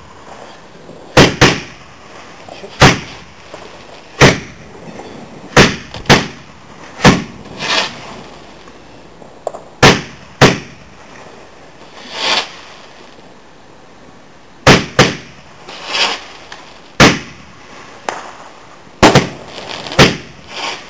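Garden fireworks going off: a string of sharp, loud bangs at irregular intervals of about one to two seconds, some of them softer and drawn out.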